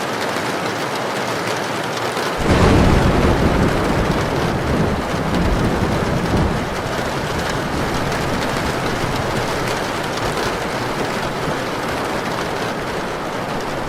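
Heavy rain falling steadily. About two and a half seconds in, a low rumble of thunder breaks in suddenly; it stays loud for about four seconds, then dies back under the rain.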